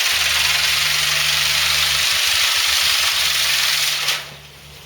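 Catherine wheel firework burning with a loud, steady hiss of spraying sparks that cuts off suddenly about four seconds in.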